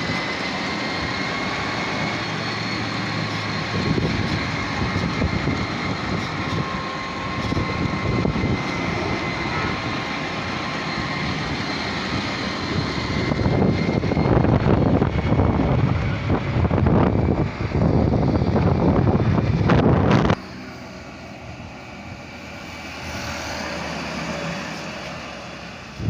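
Montra electric tractor running after being switched on: a steady high motor whine over a rough rumble. About halfway through, a louder rough rushing noise takes over for several seconds, then cuts off suddenly, and the rest is quieter.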